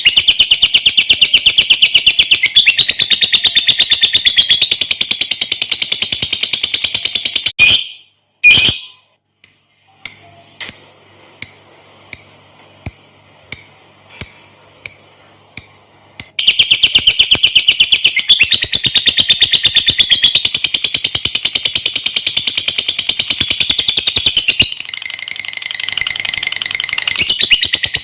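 Lovebird singing its long 'ngekek' song, a loud, very rapid, shrill chattering trill. About seven seconds in it breaks off into a string of short single chirps, roughly one every half second or so, then the continuous trill resumes near the middle.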